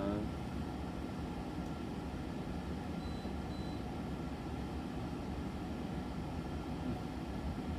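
Steady low rumble and hiss of background room noise, unchanging throughout, with no distinct handling clicks or knocks.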